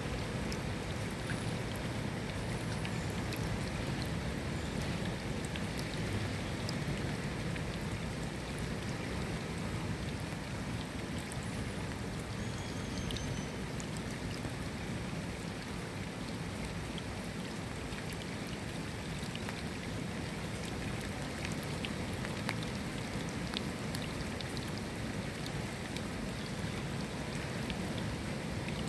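Steady rain falling, an even hiss with many separate drops ticking close by.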